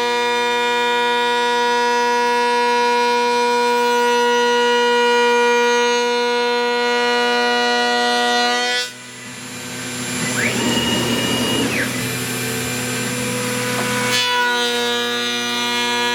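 CNC router running with a steady, multi-toned whine. About nine seconds in it gives way to about five seconds of noisy cutting into wood, with a machine whine that rises, holds and falls back. Then the steady whine returns.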